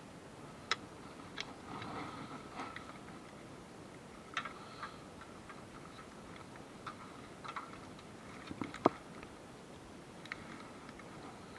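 Irregular metallic clicks and clinks of hand tools and car parts being handled during engine-removal work, a dozen or so scattered knocks, some ringing briefly. The sharpest knock comes near the end.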